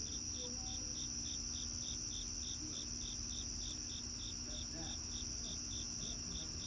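Crickets chirping at night: a steady high-pitched trill with a lower chirp pulsing evenly about four times a second over it.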